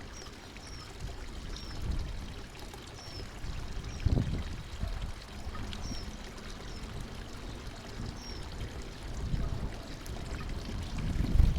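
Small songbirds at a feeder give short, high, down-slurred chirps, about one a second and irregular, over a low, rumbling noise that swells twice.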